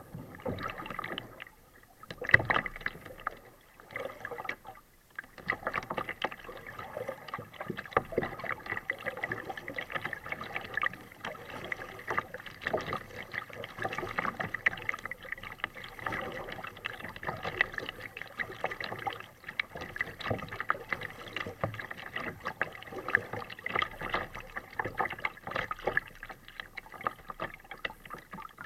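Water splashing and trickling around a kayak as it is paddled: a few separate splashes at first, then a dense, continuous crackle of lapping water from about five seconds in.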